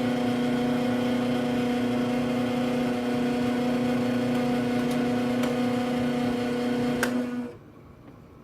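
Loud, steady mechanical hum from the freezer section of a GE GTH18GCDDRWW refrigerator, a low drone with a strong overtone, the abnormal noise that the owner wonders may come from ice forming in the back cavity. About seven seconds in there is a click as the temperature control is turned down, and the hum cuts off half a second later.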